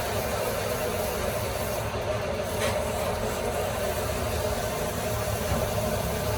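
Steady mechanical hum of workshop machinery running, with a short click partway through.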